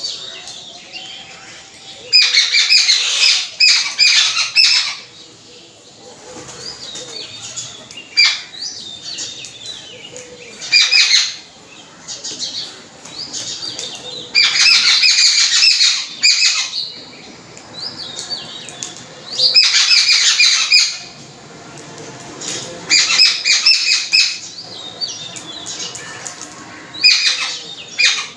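A flock of babblers screaming in loud bursts of rapid, harsh, chattering notes, about six bursts of one to three seconds each, with quieter calls between them. The uploader takes the screaming for the babblers' protest at being kept from the food by mynas.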